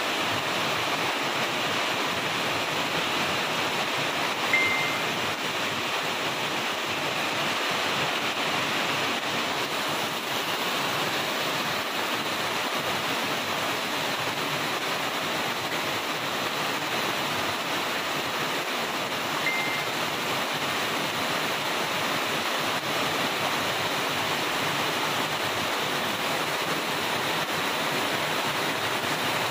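Heavy rain falling steadily on banana leaves and grass, an even dense patter. A short high-pitched tone cuts through twice, about four seconds in and again about two-thirds of the way through.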